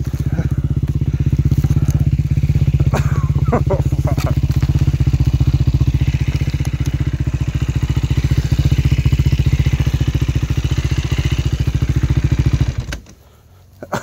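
Dirt bike engine running steadily with an even, fast firing pulse, then cutting off suddenly near the end.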